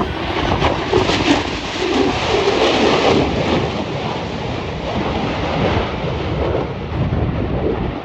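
An F-35A Lightning II fighter jet flying past with the deep roar of its single turbofan engine. The roar is loudest over the first three seconds or so, then eases slightly as the jet moves away.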